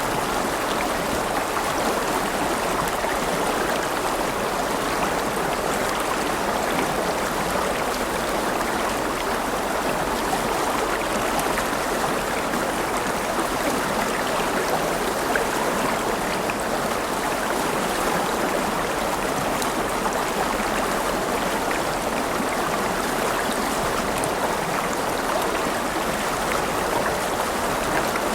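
A river flowing, a steady rushing of water over rocks with no change in level.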